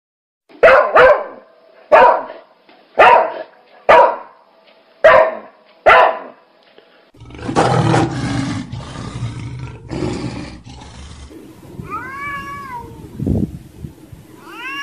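A string of animal calls: about seven short, sharp calls roughly once a second, then a low rough growl lasting a few seconds, then a domestic cat meowing twice near the end.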